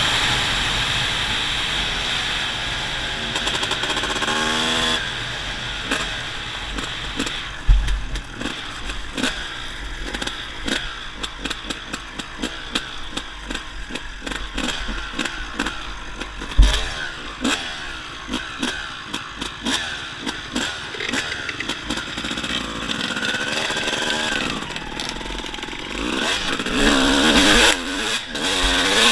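Dirt bike engine revving up and down while riding, with frequent knocks and rattles and two loud thumps about eight and sixteen seconds in.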